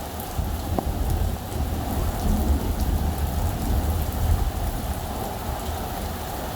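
Steady heavy rain falling during a thunderstorm, with a low rumble of thunder rolling in about half a second in and easing off after about four seconds.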